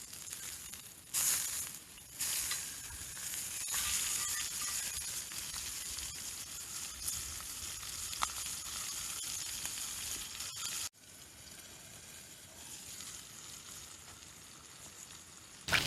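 Chicken sizzling as it grills over a wood fire in a stone-built firepit, a steady hiss with occasional small crackles. About eleven seconds in it drops abruptly to a quieter sizzle.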